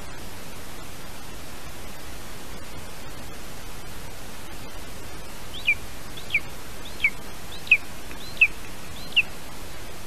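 Steady hiss from the nest camera's microphone. About halfway through, a bird gives six sharp calls, each a quick downward-sliding note, evenly spaced about two thirds of a second apart.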